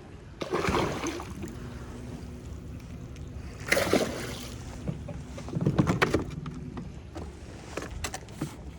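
Splashing water and knocks around a fishing kayak. There are three short splashy bursts about two to three seconds apart over a steady background of wind and water.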